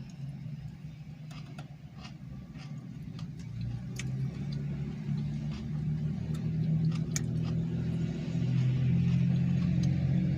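A car engine running, its low hum growing gradually louder, with scattered small clicks.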